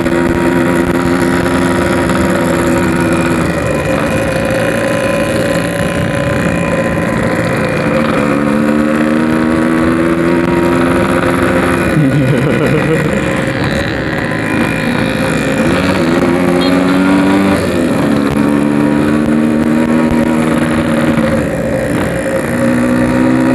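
Yamaha RX-King 135cc two-stroke single-cylinder motorcycle engine under way. Its pitch climbs as it accelerates over a few seconds at a time, then drops sharply, about four times.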